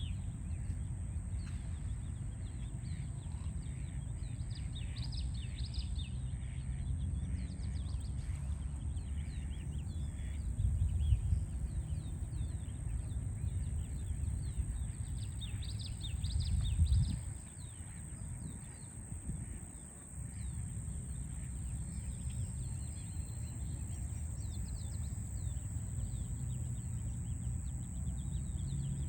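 Small birds chirping and calling in short bursts over a steady low rumble of distant city traffic, with a thin steady high tone running underneath.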